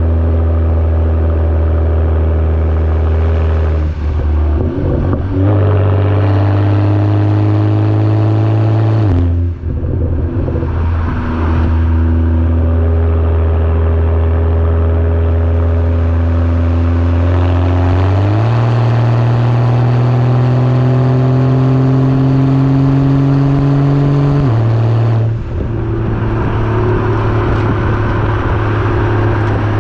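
BMW F30 335i's turbocharged straight-six engine and exhaust heard while driving: a steady engine note that climbs slowly in each gear, broken by a few gear changes where the pitch drops or jumps.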